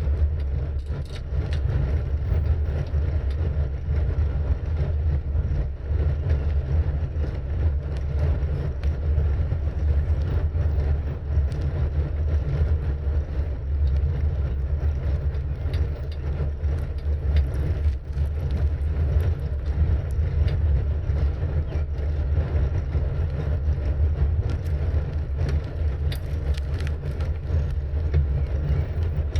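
Steady low rumble of wind buffeting the camera's microphone while riding a bicycle, with tyre and road noise beneath it and a few light clicks.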